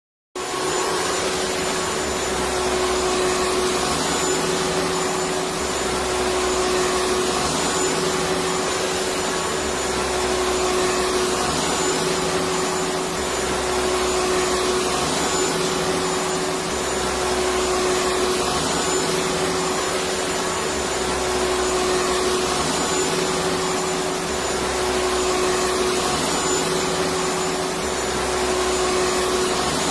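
Electric vacuum cleaner running continuously: a steady hiss with a constant hum and a faint low pulse repeating about every two and a half seconds.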